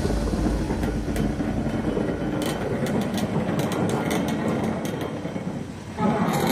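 Steam-hauled train rolling slowly past close by: the steady rumble of the carriage wheels on the track, with irregular sharp clicks from about two seconds in as the wheels cross rail joints. The rumble dips briefly and comes back louder near the end.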